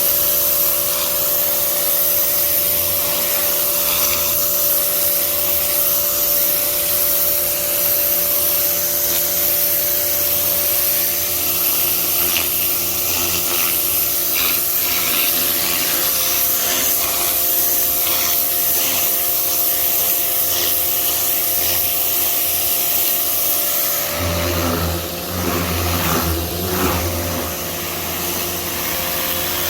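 Pressure washer running and spraying: a steady motor hum under the hiss of the water jet. About 24 seconds in, the spray sound changes and a heavier low rumble comes in.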